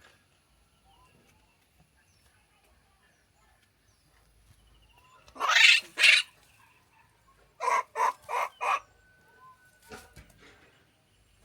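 Animal calls: two loud, harsh calls about halfway through, then four short calls in quick succession.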